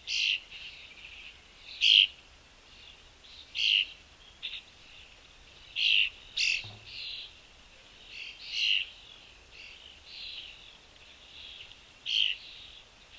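Small birds chirping: short, separate calls, a louder one every second or two with fainter chirps between.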